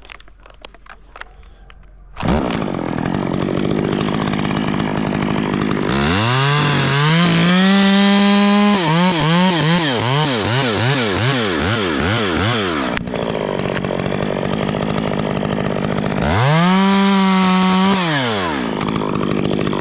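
Two-stroke chainsaw starting about two seconds in and idling, then revved hard with its pitch wavering up and down repeatedly, dropping back to idle, and revved once more briefly near the end.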